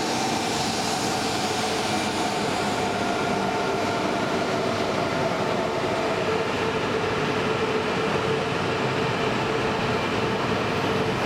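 E4 series Max double-deck Shinkansen train moving slowly past the platform, with a whine of a few steady tones over the rumble of the wheels.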